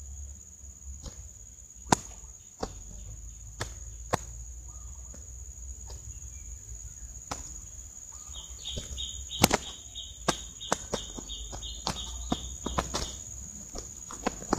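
Steady high insect drone with scattered sharp clicks and knocks, the clicks being the loudest sounds; a rapid chirping trill runs for several seconds past the middle.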